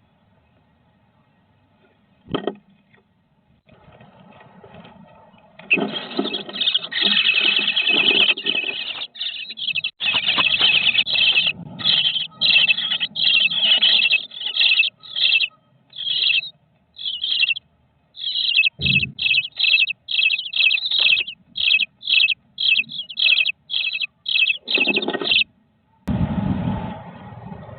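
Bluebird nestlings in a nest box giving loud, raspy begging calls, first in a near-continuous stream and then in rapid separate bursts for about twenty seconds. A single thump comes a couple of seconds before the calls start.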